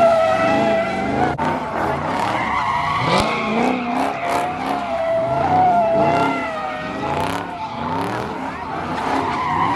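A car's tyres squealing continuously in a burnout or donut, a wavering high squeal, with the engine's revs rising and falling again and again underneath.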